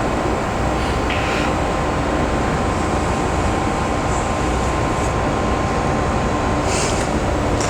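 Steady rumbling background noise with a faint steady tone and no distinct events.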